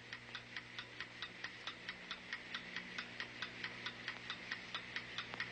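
Clock ticking steadily, about four ticks a second, over a faint low steady hum.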